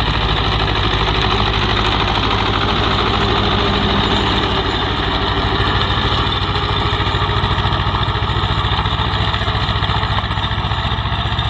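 Swaraj 724 XM tractor's two-cylinder diesel engine running steadily with an even, rapid low pulse.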